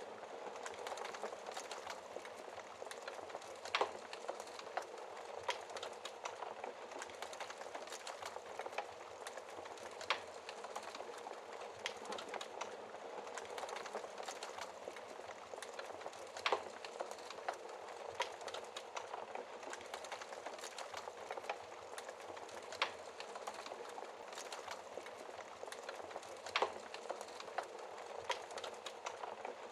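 Wood fire crackling in a fireplace: a steady hiss dotted with many small pops, and a handful of louder, sharper snaps.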